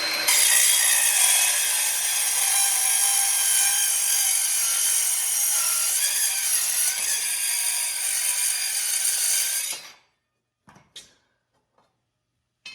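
A power saw with a toothed blade cutting through metal stock, a steady high screeching cut that stops suddenly near the end.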